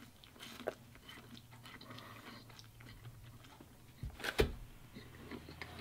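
A person chewing a mouthful of instant noodles eaten with chopsticks, with small wet mouth clicks. Two sharp knocks come about four seconds in.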